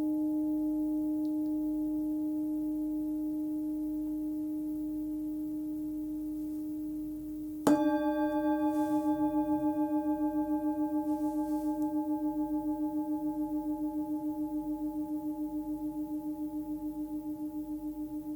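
A 14 cm Nepalese singing bowl, tuned to about 298 Hz (D), rings as it slowly fades. It is struck again nearly eight seconds in and goes on ringing with a gently pulsing waver.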